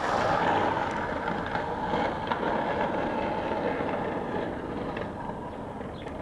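Skateboard wheels rolling on rough pavement, a steady rumble that fades gradually as the board rolls away.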